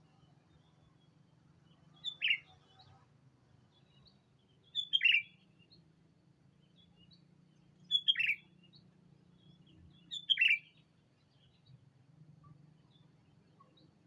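Sooty-headed bulbul (kutilang) calling: four short, loud, downward-sweeping calls spaced a few seconds apart, with a few faint chirps between them. It is a decoy bird calling to draw in rival bulbuls.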